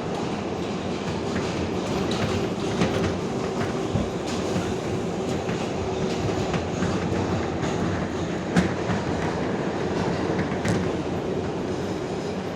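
Inside an R142A subway car running between stations: steady rumble of wheels on rail with a faint steady hum, broken by a few sharp clicks, the loudest about two-thirds of the way through.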